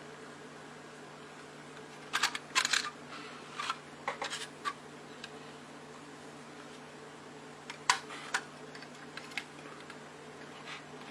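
Scattered sharp clicks and taps, most of them in two clusters about two to five seconds in and around eight seconds, over a steady low hum.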